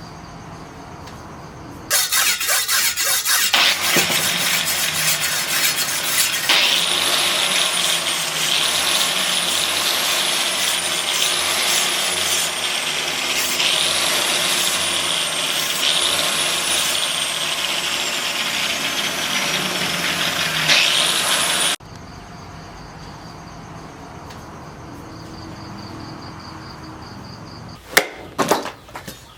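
Power grinder grinding steel, with loud grinding noise over the motor's whine. The motor's pitch sags slowly as the tool is pressed in and jumps back up roughly every two seconds. The noise stops suddenly about three quarters of the way through, leaving crickets chirping, and a few sharp knocks come near the end.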